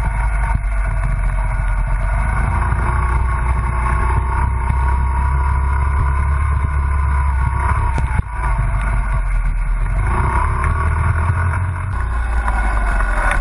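Honda CRF50 mini dirt bike's small single-cylinder four-stroke engine running, its pitch rising and falling as the throttle is worked, over a steady low rumble. The sound dips briefly about eight seconds in.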